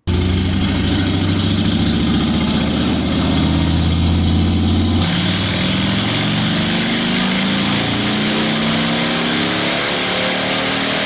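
Harley-Davidson Milwaukee-Eight 114 V-twin with a Trask Assault 2-into-1 exhaust running on a dynamometer, its engine speed climbing steadily under load. About five seconds in the tone shifts and the exhaust sound gets harsher as the revs keep rising.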